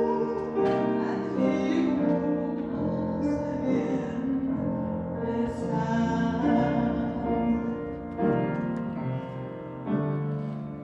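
Piano music with sustained chords, accompanying a church hymn.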